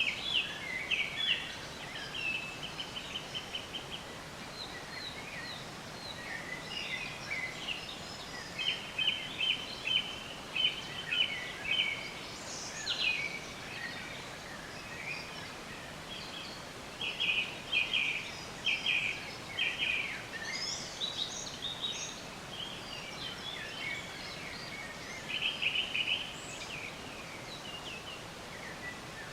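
Several songbirds chirping and singing, with rapid trills of quick repeated notes recurring throughout, over a steady background hiss.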